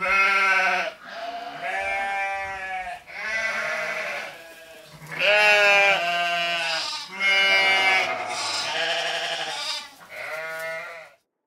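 A run of six or seven loud, wavering animal calls, each about a second long, starting suddenly and cutting off abruptly near the end.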